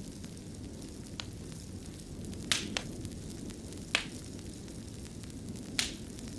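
Wood fire crackling in a fireplace: a steady low rumble of burning with sharp pops about 1, 2.5, 3, 4 and 6 seconds in, the loudest near 2.5 seconds.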